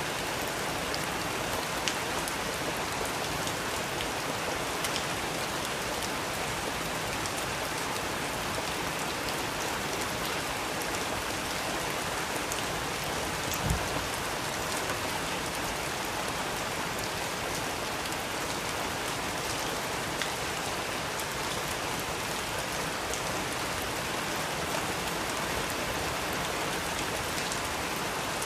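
Steady rain falling on a surface, with scattered individual drop ticks. A single soft low thump comes about halfway through.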